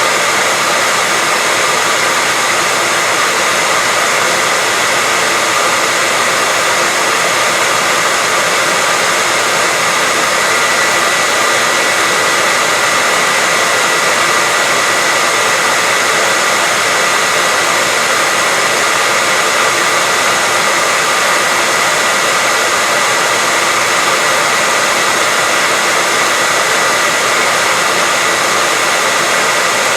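Hair dryer running steadily, a constant airy rush with a faint high whine from its motor.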